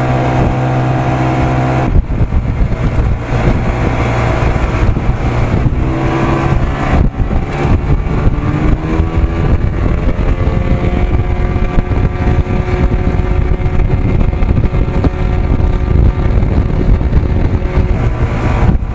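Evinrude 55 hp two-stroke outboard motor running at cruising speed, pushing a boat along. About two seconds in, rushing wind and water noise suddenly swells over it, and the engine's pitch shifts a few seconds later before settling.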